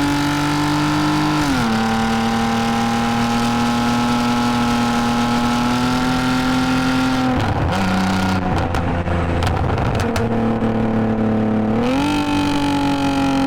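2010 Lexus IS250 AWD's 2.5-litre V6 through a full aftermarket exhaust with valved mufflers. The revs climb and drop sharply at an upshift about a second and a half in, then hold nearly steady. A rough, uneven patch with scattered crackles follows in the middle. Near the end the revs jump at a downshift, then fall slowly as the car slows.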